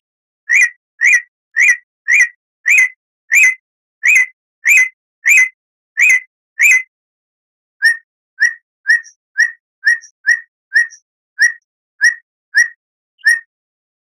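Bird-lure recording of a songbird calling: a run of short, sharp, evenly spaced calls a little under two a second, then after a short pause a second run of slightly lower, quicker calls. It is played to coax captive birds into singing.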